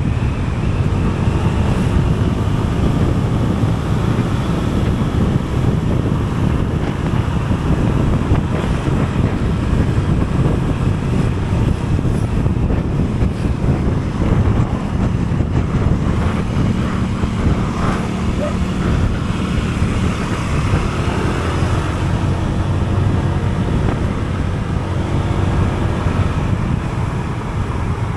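Wind rushing over the camera microphone on a moving vehicle, over steady engine and road noise, with a faint engine note rising in pitch partway through.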